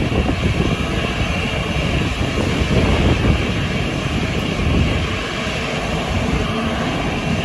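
Airliner engine noise, a loud, steady rumble with a hiss on top.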